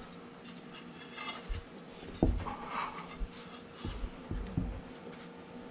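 Scattered light metallic clinks and dull knocks of parts and tools being handled in shop work, irregular, with one sharper knock a little over two seconds in.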